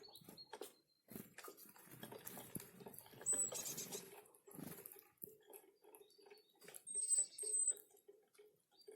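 Small forest birds at a winter feeding spot: a few brief, thin, high call notes, the loudest about three seconds in and again about seven seconds in, over a scatter of small clicks and rustles.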